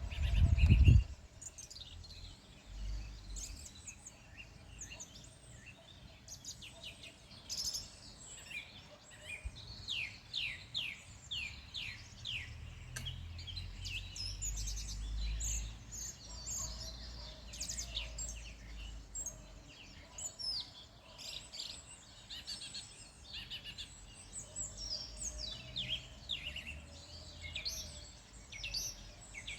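Several wild birds singing and calling, many quick, falling, chirping notes overlapping. A low rumble in the first second is the loudest sound, with softer low rumbles later.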